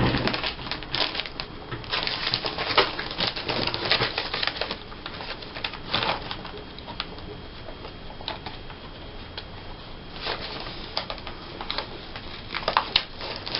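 Paper clippings being handled, rustling and crackling in short irregular bursts with small clicks, busiest in the first few seconds and again near the end.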